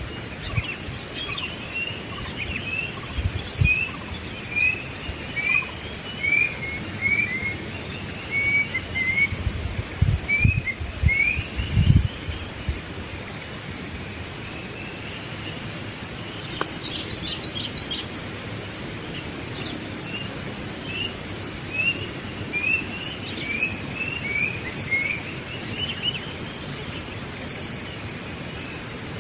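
Wild birds calling, one giving a repeated series of short chirps, over a steady high insect drone. A few low thumps come about ten seconds in and are the loudest sounds.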